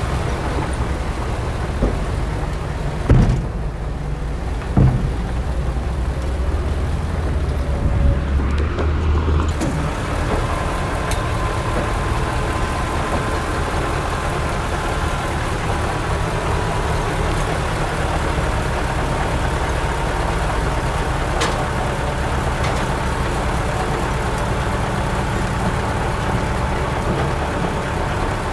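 Heavy diesel earthmoving machinery running steadily with a deep engine rumble, with two sharp knocks about three and five seconds in and a faint steady whine joining about ten seconds in.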